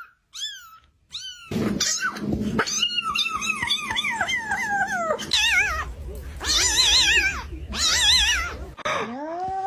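Kitten meowing over and over. There is one brief cry, then a run of short falling meows, then three longer wavering cries. Near the end a rising cry begins and holds steady.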